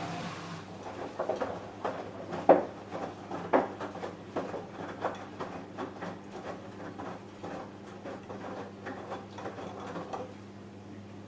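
Samsung Eco Bubble washing machine running a wash, with the load tumbling and splashing in the drum as irregular knocks over a steady low hum. The tumbling stops near the end and the hum carries on.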